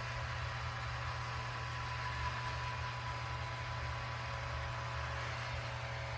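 iRobot Roomba Combo j7+ robot vacuum running: a steady motor hum with a faint, even whine.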